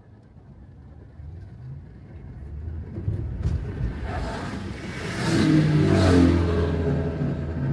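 A motor vehicle passes close by on the wet road: its engine hum and tyre hiss build up over a few seconds, are loudest about six seconds in, then begin to fade.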